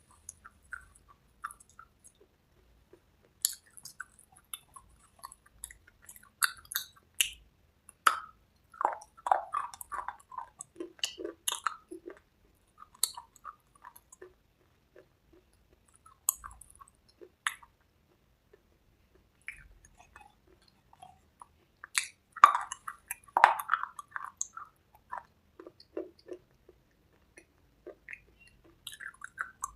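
A person chewing and crunching cubes with red slate paste at close range: irregular crisp bites and crackles with short quiet gaps, busiest about eight seconds in and again about twenty-two seconds in.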